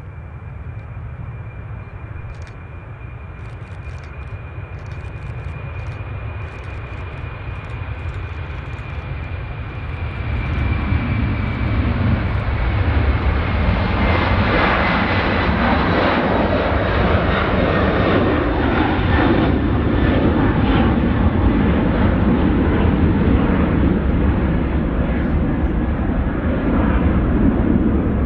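Jet airliner engines passing close by. A steady whine slowly drops in pitch as the engine noise builds, then turns into a loud, sustained roar about ten seconds in.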